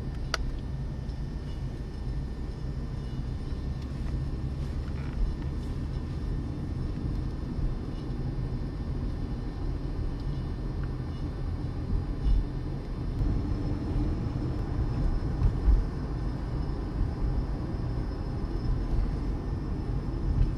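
A car driving: a steady low rumble of road and engine, with a few brief louder low thumps.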